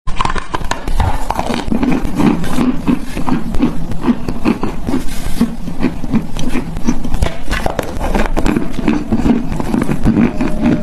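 Close-miked chalk being bitten and chewed: a dense, continuous run of crunches and cracks.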